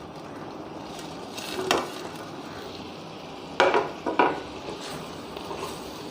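Pan of chilli sauce sizzling steadily over a high flame as fried chicken pieces are added and stirred in, with three sharp knocks against the pan, one just under two seconds in and two close together around four seconds.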